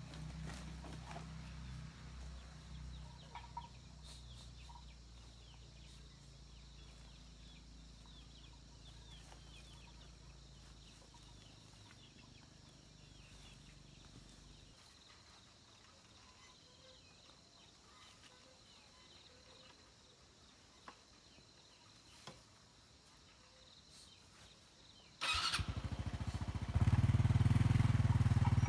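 Quiet rural background with a low steady engine hum and faint chicken peeps for the first half. Near the end a small engine starts suddenly and runs loudly, getting louder a moment later.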